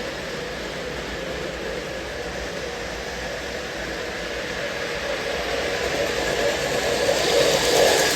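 O scale Lionel Lion Chief Dash 8 model diesel locomotives pulling a train of tank cars along the track: a steady running rumble of motors and wheels, growing louder toward the end.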